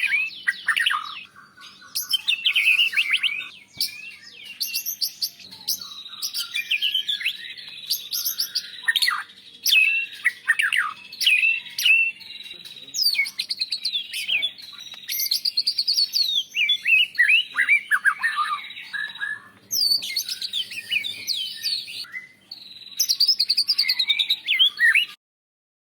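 White-rumped shama (murai batu) singing a loud, varied song of rapid whistles, trills and chirps in phrases with short pauses, cutting off abruptly near the end.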